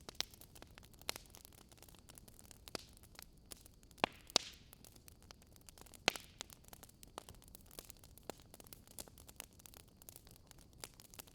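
Wood fire crackling, with irregular sharp pops over a soft hiss; the loudest pops come about four and six seconds in.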